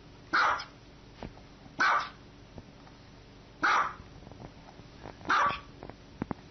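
Small white dog barking: four single, high-pitched barks about one and a half to two seconds apart.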